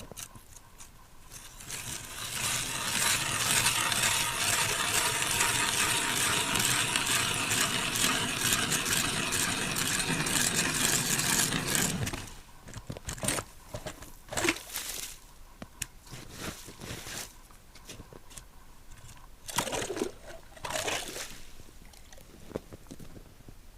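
Ice auger drilling a hole through river ice: a steady grinding crunch for about ten seconds that stops abruptly, followed by scattered scrapes and knocks.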